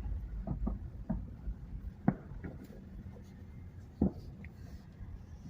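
Low rumble inside a moving car with a few scattered knocks and taps, two of them louder about two and four seconds in.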